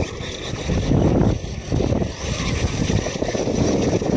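Arrma Outcast brushless electric RC stunt truck running and drifting on ice, a rough noisy sound that swells and fades as it drives.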